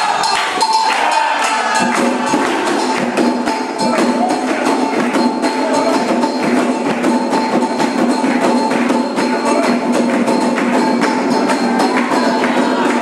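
Candomblé ritual music: dense, fast, steady hand percussion with jingling strikes and a few sustained tones held underneath.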